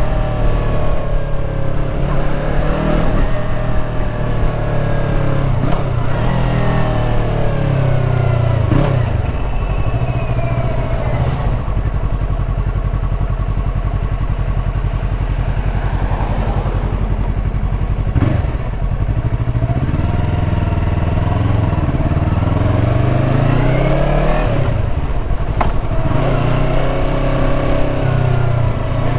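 Yamaha R3 motorcycle's parallel-twin engine running, its revs rising and falling several times with steadier stretches between.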